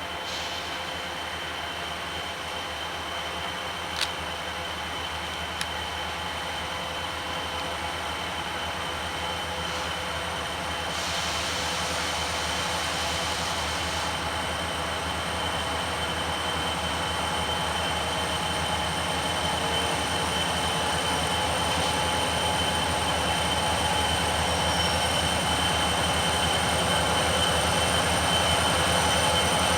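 Freight train rolling on the main line, a steady rumble that slowly grows louder as it draws closer. A single sharp click about four seconds in.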